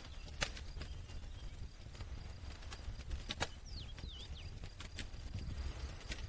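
Campfire crackling: irregular sharp pops and snaps, the loudest about half a second in and again about three and a half seconds in, over a low steady rumble. A few short, high sliding chirps come about four seconds in.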